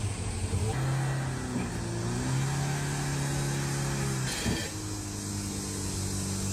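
Car engine running with a steady drone whose pitch steps up and down a few times, with a brief knock about four and a half seconds in.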